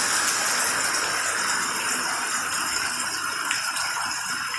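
Heavy rain pouring steadily onto a dirt yard covered in standing water: an even hiss that eases slightly toward the end.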